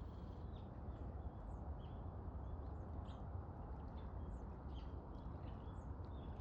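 Small birds chirping faintly, short high calls several times a second, over a steady low outdoor rumble.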